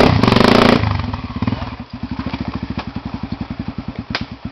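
Trail motorcycle engine revving hard briefly, then dropping back to a slow, even chugging of about eleven firing pulses a second. A couple of sharp clicks are heard, one near the end.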